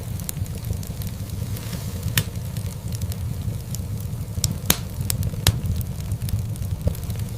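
Wood fire in a fireplace crackling over a steady low rumble of flames, with scattered small clicks and a few sharp pops, the loudest about halfway through.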